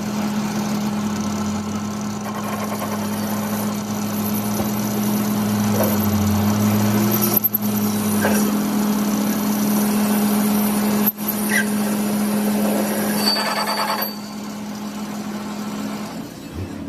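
A machine running steadily, with a constant hum and hiss. It eases off near the end, and the hum stops.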